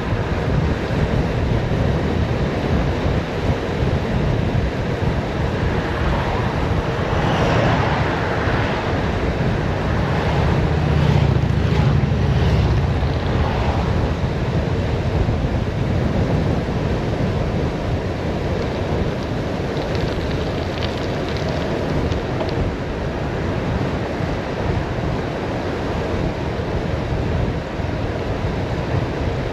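Wind buffeting the microphone on a fast downhill bicycle ride, a steady rushing with heavy low rumble that swells for a few seconds about a third of the way in.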